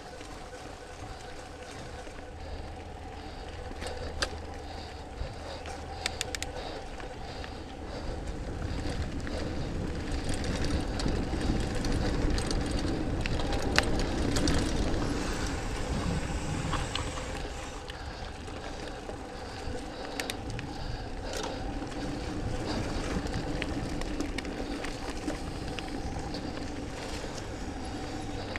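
Trek Mamba mountain bike riding along a dirt trail: steady rolling and rattling, with scattered sharp clicks from bumps. A low rumble of wind on the camera microphone swells louder for several seconds around the middle.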